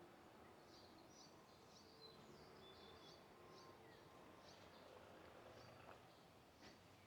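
Faint, short, high chirps from small birds, repeated many times, over quiet outdoor background hiss.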